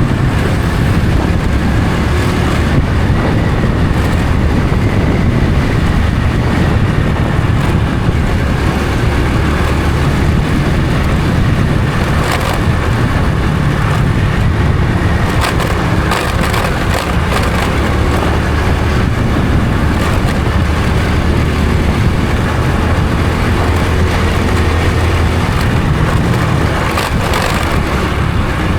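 Honda Supra X 125 FI motorcycle's single-cylinder four-stroke engine running steadily while riding, with a few brief knocks partway through.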